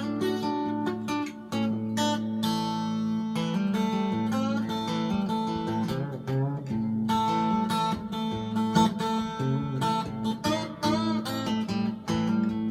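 Homemade three-string electric guitar with a single-coil pickup, played without a slide through a small Marshall MG 15-watt practice amp with a little reverb: picked notes over steady, ringing low strings.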